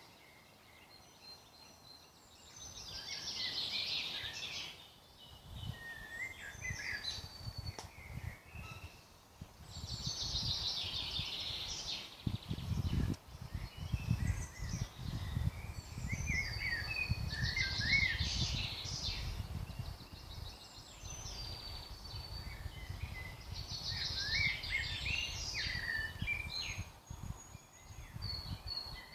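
Woodland birdsong: a songbird repeats a phrase of about two seconds roughly every seven seconds, with thinner calls from other birds in between. A low rumble comes in about twelve seconds in and continues under the song.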